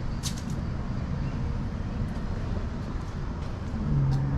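Steady low outdoor rumble, with a few sharp clicks just after the start and a short low hum near the end.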